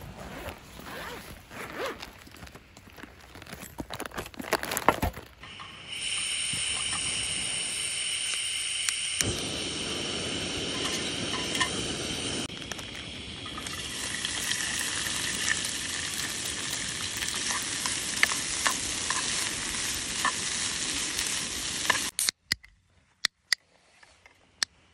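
Food sizzling in a frying pan: a steady hiss that shifts at several cuts and stops abruptly near the end. The first few seconds hold scattered knocks and clicks.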